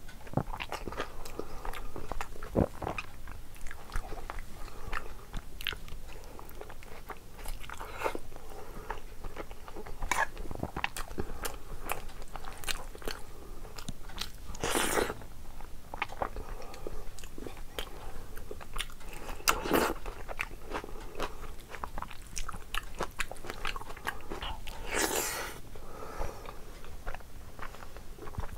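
A person chewing mouthfuls of rice eaten by hand, close to the microphone. There is a steady run of small mouth clicks, with a few louder bites spread through.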